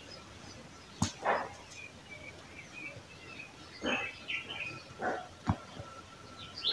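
Faint chirps of small birds in the background, with a few soft clicks and rustles of thread and fabric being handled, the clearest about a second in.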